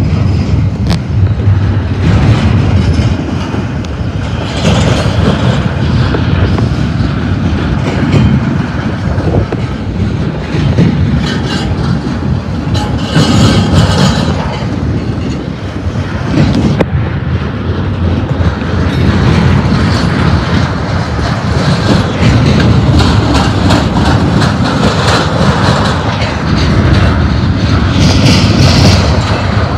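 Loaded double-stack intermodal container well cars rolling past at close range. Their steel wheels run over rail joints with a steady loud rumble and a fast clickety-clack, and brief high-pitched wheel squeals come about halfway through and again near the end.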